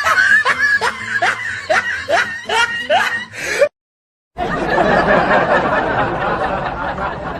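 Laughing sound effect: a run of short, rising snickers, then a sudden cut to silence and a dense burst of laughter about four and a half seconds in.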